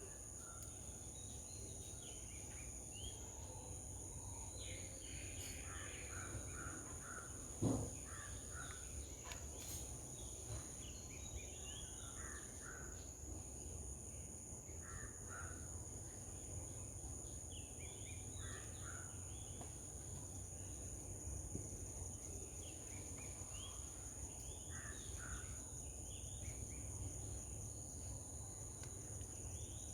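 Outdoor garden ambience: a steady high-pitched insect drone throughout, with scattered clusters of short bird calls, some crow-like. One sharp thump about eight seconds in is the loudest sound.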